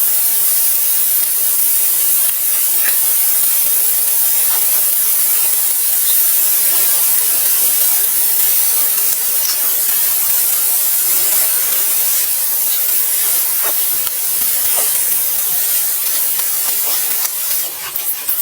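A steady, high hiss with a few faint scattered ticks.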